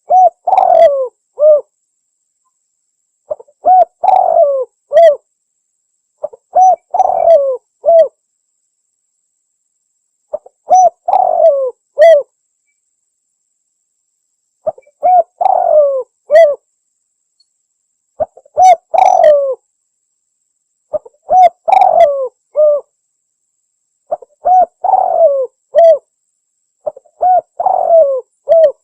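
Spotted dove cooing. Its call phrase of a few quick coo notes repeats about every three seconds, with silence between phrases.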